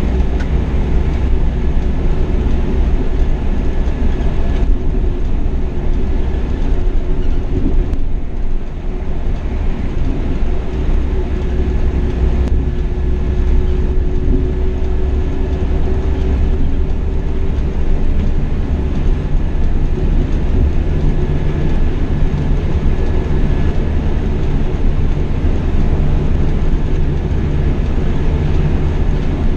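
Scania K420 double-decker coach under way: its diesel engine and road noise give a steady low drone with a faint high whine, dipping briefly about eight seconds in.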